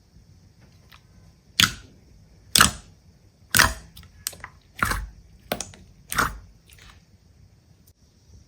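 A series of about eight short, sharp, crisp clicks or snaps at uneven intervals, roughly one a second.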